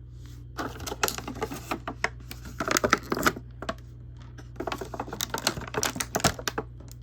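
Plastic action-figure packaging and accessories being handled, a dense run of small clicks, taps and crinkles in two bouts, the second starting past the halfway mark.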